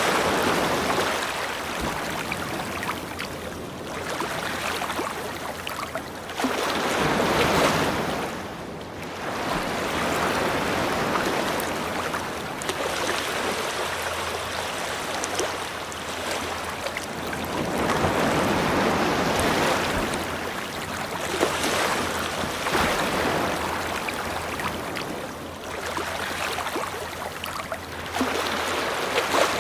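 Ocean surf washing onto a beach, the noise of the waves swelling and fading in slow surges every several seconds.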